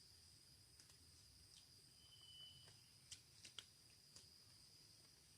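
Near silence: faint forest ambience with a steady, high, thin insect drone, one short higher call about two seconds in, and a few faint clicks past the middle.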